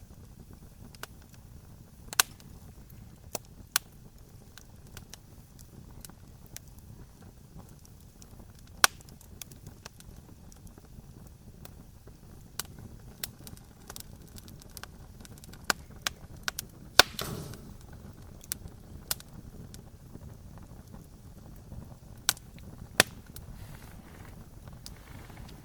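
Wood campfire crackling: irregular sharp pops and snaps over a low steady rush of burning wood, with a louder cluster of snaps about seventeen seconds in.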